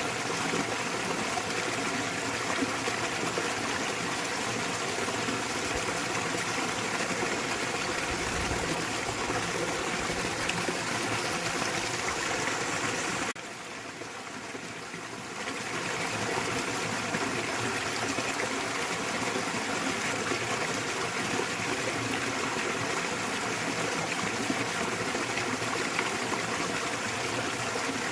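Small waterfall splashing and rushing steadily into a mountain stream. It drops briefly quieter for about two seconds near the middle, then returns to the same level.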